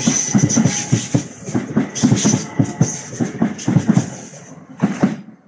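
Electric multiple-unit train going by, its wheels clattering fast and unevenly over rail joints and pointwork under a steady high hiss; the last bogie's two heavy knocks come about five seconds in, and then the clatter stops.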